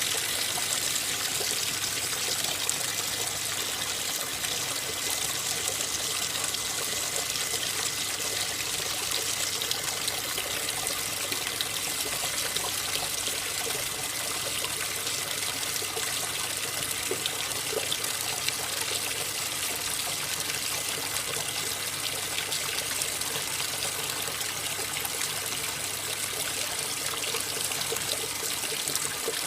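Water pouring steadily into the tub of an AQUA MCW-C50 coin-operated top-loading washing machine as it fills.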